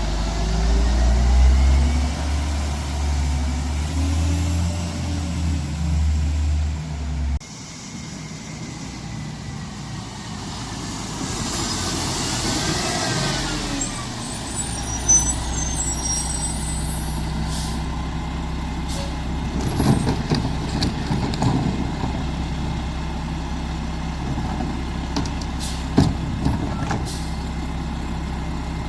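Diesel engine of a Mack MR rear-loader garbage truck running, loud at first and then dropping off abruptly after about seven seconds. Near the middle comes an air-brake hiss with a high squeal, and a few sharp clanks follow later.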